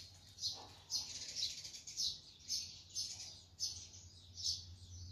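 A small bird chirping over and over, short high chirps about twice a second.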